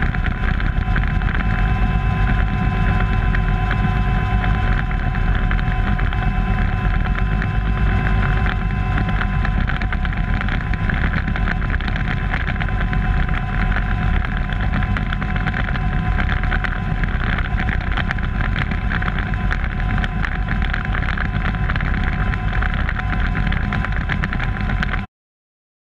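Kaman HH-43 Huskie helicopter running steadily in flight: the turboshaft's whine over the thrum of its intermeshing rotors. The sound stops abruptly near the end.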